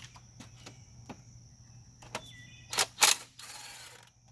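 Engine parts and hand tools being handled during disassembly: scattered light clicks, then two loud sharp clacks a little under three seconds in, followed by a brief scraping rush.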